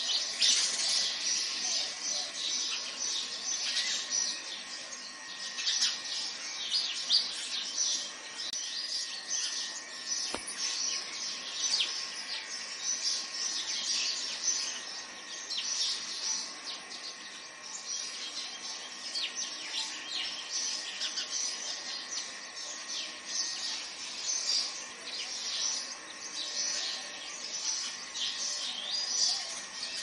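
A chorus of many birds chirping and twittering without pause, a dense stream of short high calls.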